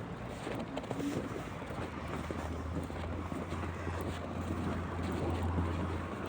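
Wind rumbling on the microphone. A low steady hum joins in about two seconds in and stops near the end.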